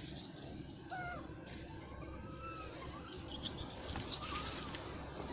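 Scattered short, high chirping animal calls, some gliding up or down in pitch, with a quick run of high squeaks about three seconds in, over steady outdoor background noise.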